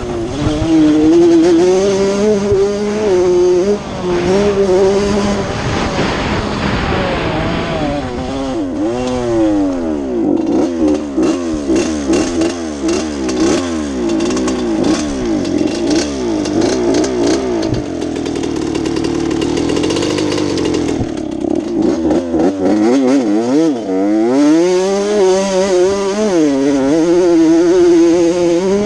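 Honda CR80 two-stroke motocross bike being ridden, its engine revving up and down again and again as the throttle is opened and closed.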